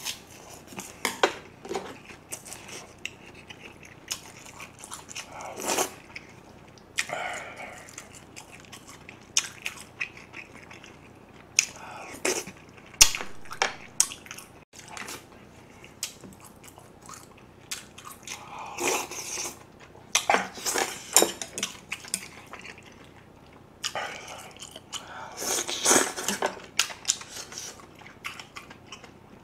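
Close-miked chewing and biting of spicy braised monkfish with bean sprouts, with wet mouth sounds and a few sharp clicks of chopsticks against the dishes.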